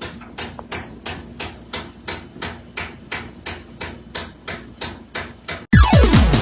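A steady run of sharp taps, about three and a half a second. Near the end, loud electronic dance music cuts in with falling sweeps.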